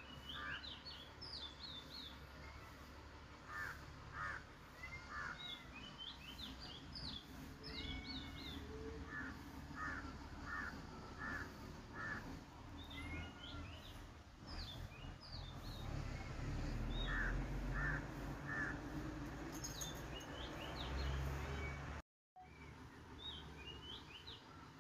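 Birds calling repeatedly in short chirps and quick rising notes over a low, steady background rumble; the sound cuts out for a moment near the end.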